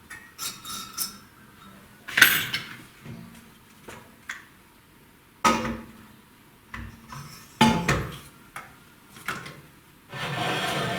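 Scattered metallic clinks and knocks of tools being handled and set in place while a valve-seat cutter is fixed on a cylinder head. The loudest knock comes about two seconds in, and there is a longer scraping rattle near the end.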